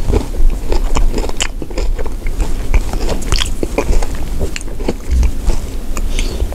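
A person chewing a bite of frozen ice cream made to look like a fried chicken drumstick, with many irregular crunches from its crispy outer coating.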